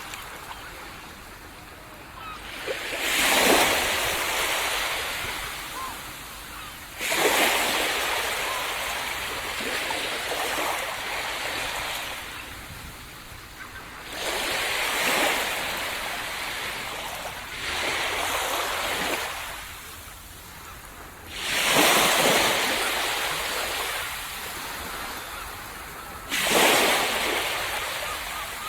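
Small ocean waves breaking on a tropical beach: six breaks, one every three to five seconds. Each is a sudden rush of surf that fades into a washing hiss before the next.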